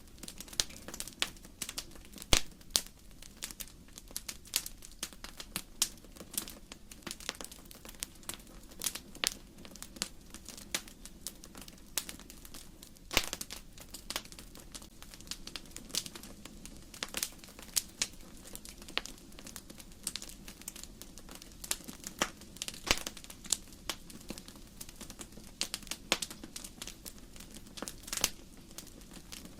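Wood fire crackling: burning logs pop and snap at irregular intervals over a low steady hiss, with a few louder pops.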